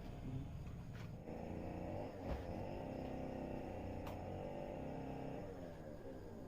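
Faint engine hum with a steady pitch that sags slightly near the end.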